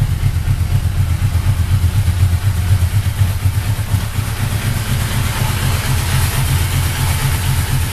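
1995 Yamaha VMX-1200 V-Max's V4 engine idling steadily, with an even low exhaust pulse. A brighter hiss comes in over the last few seconds.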